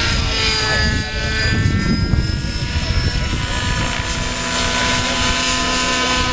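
Radio-controlled helicopter flying: the motor and rotors whine in several steady tones that drift slightly in pitch. An uneven low rumble is strongest between about one and three seconds in.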